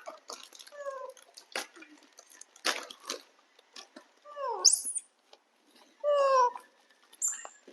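Dogs whining in short high whimpers, three cries with bending pitch, the last the loudest, excited while waiting for a treat. A few light clicks and knocks sound between the cries.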